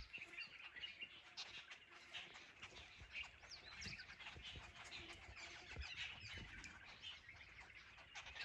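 Faint birdsong: several small birds chirping with short, scattered calls, against an otherwise quiet background.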